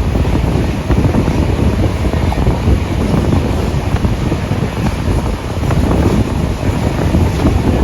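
Steam-hauled passenger train running at speed, heard from on board: a steady rumble of the carriages and rails with heavy wind buffeting the microphone.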